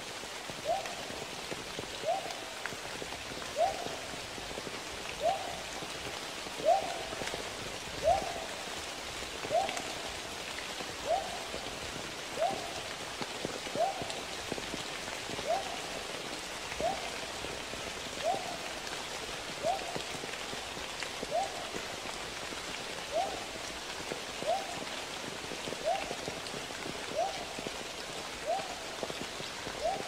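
A bird's short call, rising then falling in pitch, repeated evenly about every second and a half, over a steady rush of water.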